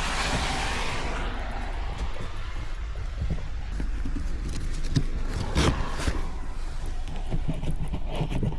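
Rain falling over a steady low hum, with a few short knocks and clinks about five and a half seconds in and again near the end.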